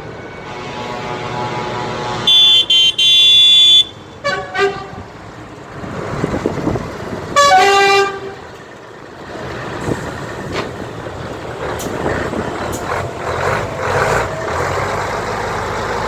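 Vehicle horns sounding from passing trucks: a quick couple of blasts then a held blast about two seconds in, the loudest part, and further shorter toots around four and seven seconds. The engine noise of passing vehicles builds in the second half.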